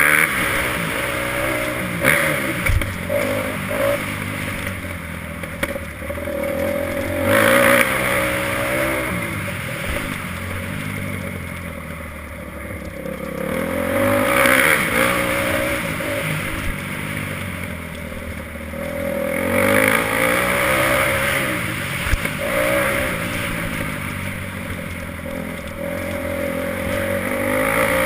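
Motocross bike engine revving hard and backing off again and again, its pitch climbing and falling several times as it rides the track.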